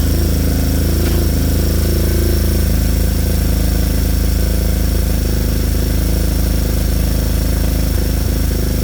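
A 140cc single-cylinder four-stroke pit bike engine running steadily with a rapid putt-putt. It has only just started running after being a non-runner, a problem the owner puts down to the fuel.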